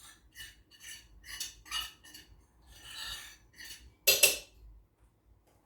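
A utensil scraping seasoning off a plate in a series of short strokes, with one louder clatter of utensil on dish about four seconds in.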